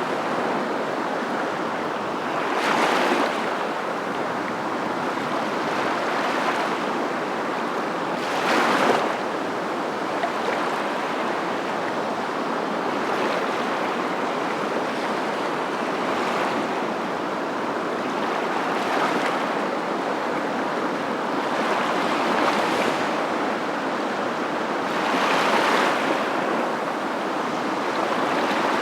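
Surf: a steady rush of water noise, with waves breaking and swelling every few seconds.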